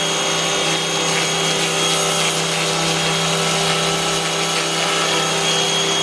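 Pressure washer running steadily: a constant motor hum with a few steady whining tones over the hiss of the spray.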